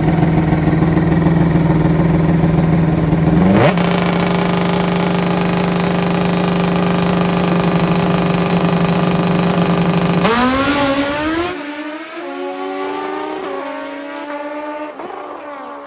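Kawasaki KZ inline-four drag bike engines held at steady high revs, the pitch stepping up once about four seconds in. About ten seconds in the revs climb through several gear shifts as the sound fades away down the strip.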